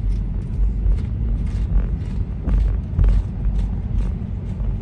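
Road noise inside a moving car's cabin: a steady low rumble of tyres and engine, with faint irregular ticks now and then.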